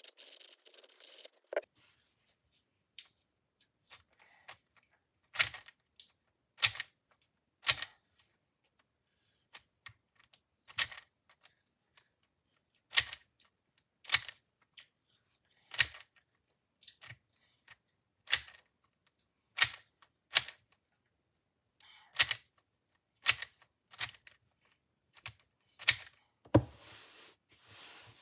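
MoYu V5 speed cube being turned one face at a time, each turn a sharp plastic click, about one a second. A brief stretch of continuous turning and rubbing comes at the start and again near the end.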